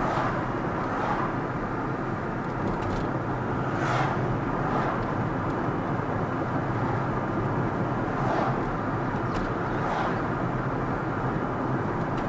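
Steady road noise of a car driving: constant tyre and engine noise, with a few brief swishes.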